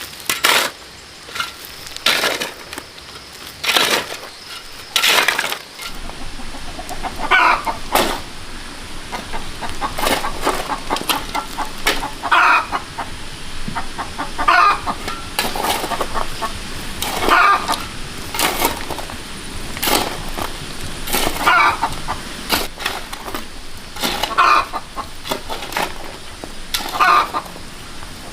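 Chickens clucking over a regular rhythm of work strokes: sharp knocks about once a second at first, then a longer stroke roughly every two and a half seconds.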